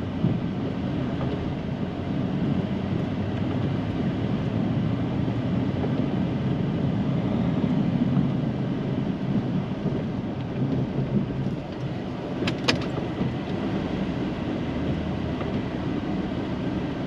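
Snow plow truck running under load as the plow pushes heavy snow: a steady low rumble. A single sharp click about twelve seconds in.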